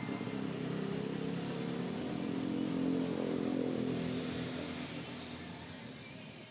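Small motorcycle engine running, its sound growing louder to a peak about three seconds in and then slowly fading.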